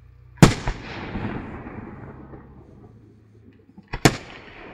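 Two aerial firework shells bursting about three and a half seconds apart, each a sharp bang that trails off over a second or two; a smaller bang follows just after the first.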